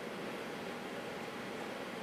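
Steady hum and hiss of a train standing at a station platform, even throughout with no sudden sounds.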